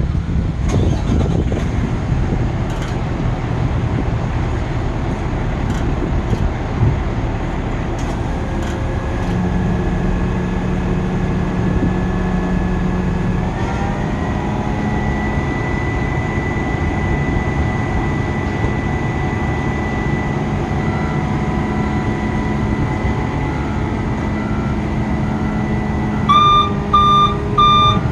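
Ford F-750 utility truck's engine running steadily, its pitch stepping up twice as the engine speed is raised. Near the end a beeping alarm starts, about two beeps a second.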